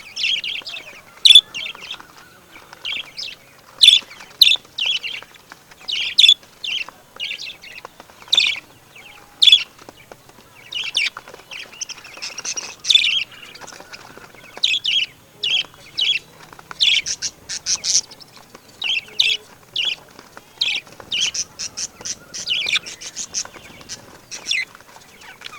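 Birds chirping: many short, high-pitched calls one after another in quick, irregular runs.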